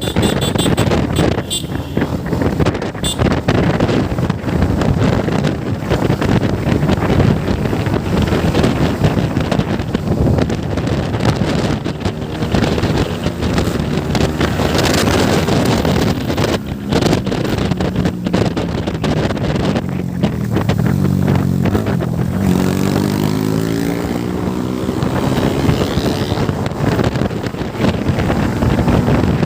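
Motorcycle riding with heavy wind buffeting on the microphone and the engine running beneath it. Past the middle, the engine's pitch drops and then climbs again as the bike slows and picks up speed.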